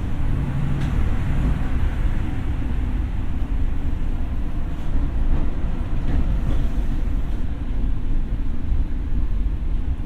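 Tokyo Metro 6000 series electric train running, heard from inside the car: a steady low rumble of wheels on rail with a few faint clicks.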